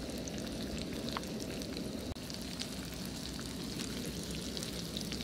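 Panko-crumbed fish fillets sizzling in hot oil in a small frying pan: a steady hiss dotted with small crackles and pops.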